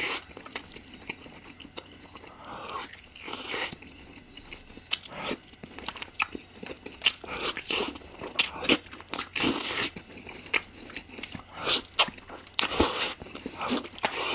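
Close-miked eating of chicken curry: wet chewing, smacking and biting, with many sharp clicks and short crunches spaced irregularly.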